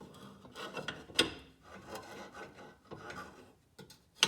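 Metal pry bar scraping and knocking against the axle's inner joint at the differential, being worked in to find a notch to pry against. The strokes are irregular, with a sharper knock about a second in and another near the end.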